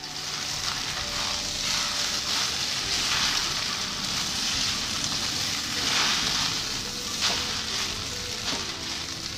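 Mie goreng noodles stir-frying in a wok over high heat: a steady sizzle as the noodles are tossed, with a few sharper scrapes and knocks of the utensils against the wok in the second half.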